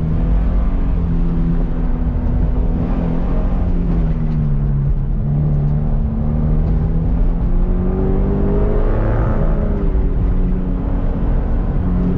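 2014 Subaru BRZ's 2.0-litre flat-four engine heard from inside the cabin, running hard between about 4,500 and 5,500 rpm, its pitch rising and falling as the throttle is worked through the cones. The revs climb about eight seconds in and drop just after nine.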